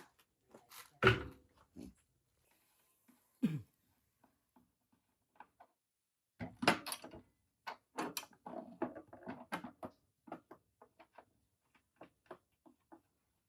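Knocks and clicks of hard objects being handled: a heavy knock about a second in, a dull thud a few seconds later, then a busy run of clicks and rattles in the middle, thinning to scattered ticks.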